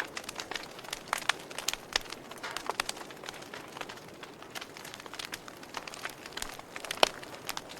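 Wood fire crackling in a fireplace: irregular sharp pops over a soft steady hiss, with one louder pop about seven seconds in.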